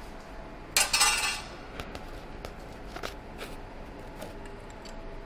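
A short clatter of metal about a second in, followed by a few light clicks and clinks, as of engine parts being handled on a bench.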